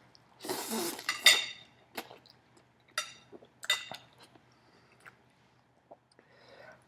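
A man eating fast: a short breathy blow about half a second in, as on hot food, then a few brief squeaky, clinking sounds and faint chewing clicks.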